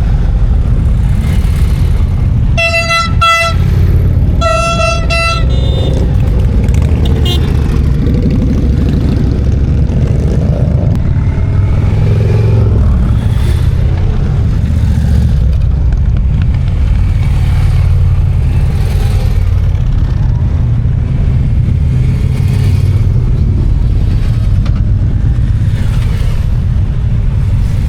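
A steady procession of V-twin motorcycles riding past, their engines giving a continuous low rumble with each bike swelling as it passes. About three seconds in a motorcycle horn honks twice in quick succession.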